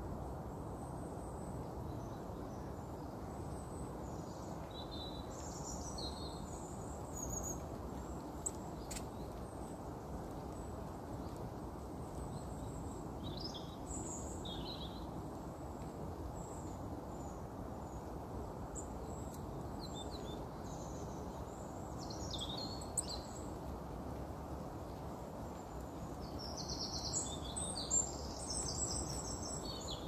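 Steady outdoor background noise with scattered short, high-pitched bird chirps and calls, coming more thickly near the end.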